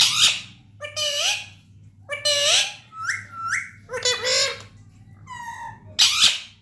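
A pet parrot calling in a run of about seven short, harsh squawks and whistled notes, roughly one a second, several of them sliding upward in pitch.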